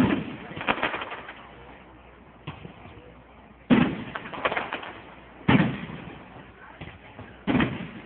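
Fireworks going off: four loud bangs, each followed by a few smaller pops and a fading rumble.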